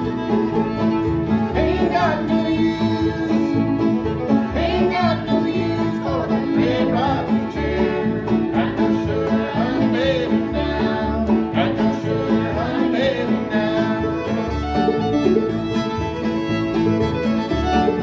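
Live string band playing an instrumental passage: a fiddle carrying the melody with sliding notes over strummed guitar and a steady, repeating bass line.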